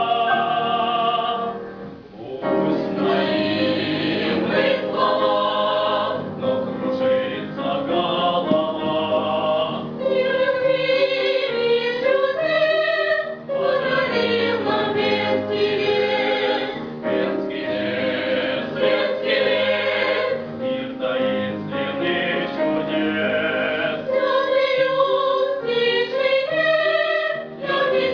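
A vocal ensemble singing a piece in harmony with musical accompaniment, with a brief pause about two seconds in.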